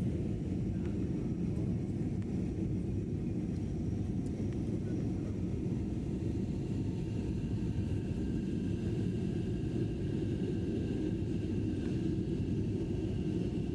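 Steady low rumble of engine and airflow noise heard inside an airplane's cabin in flight after takeoff, with a faint high whine joining about halfway through.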